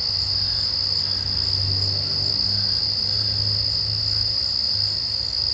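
Night insect chorus: a steady, high-pitched trill that never breaks, with a faint low hum underneath.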